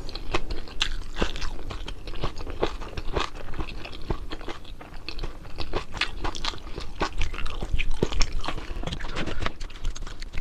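A person chewing and crunching crisp food close to the microphone, with quick, irregular crunches throughout.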